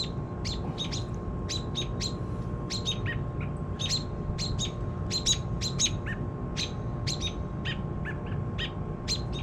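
Small birds giving short, sharp chirps over and over, several a second without a break, over a low steady rumble.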